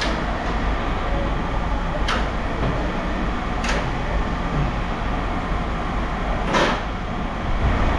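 Steady low rumble of running scrapyard machinery, with four sharp metal clanks; the loudest comes about six and a half seconds in.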